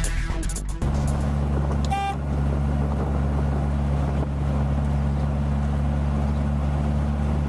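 A trike's engine running at a steady pitch, with one short vehicle-horn toot about two seconds in.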